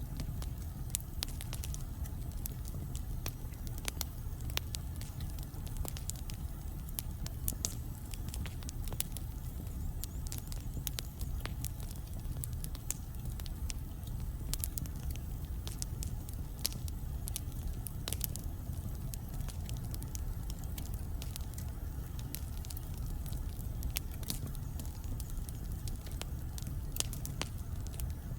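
Wood logs burning in a fireplace: a steady low rumble of flame with frequent irregular crackles and small pops.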